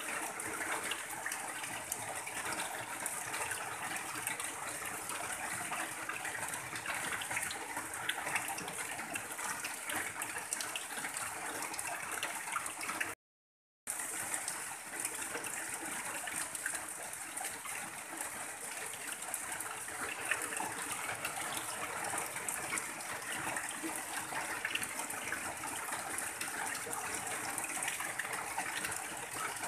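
Heavy rain falling on a tin roof, with runoff pouring off the roof edge in a steady stream. The sound cuts out completely for under a second about thirteen seconds in, then resumes unchanged.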